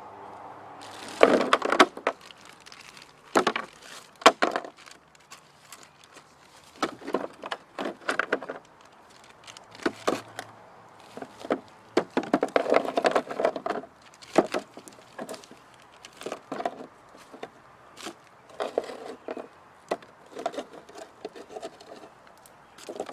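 Dry twigs and brush cracking and snapping in irregular clusters of sharp cracks and crunches, with quieter gaps between.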